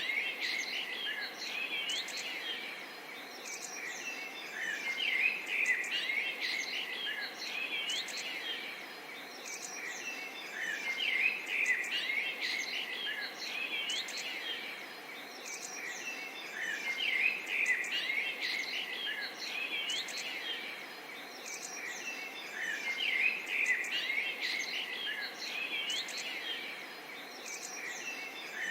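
Many small songbirds chirping and trilling together over a soft, steady babble of water.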